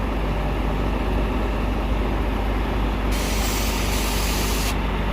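A heavy diesel truck engine running steadily, with a burst of hissing air that starts suddenly a little past halfway and cuts off after about a second and a half.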